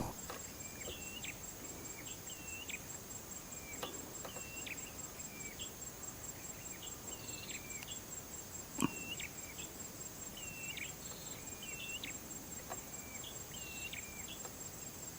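Quiet rural ambience: a steady high-pitched insect trill with short chirping calls repeating about once a second, and a single faint click about nine seconds in.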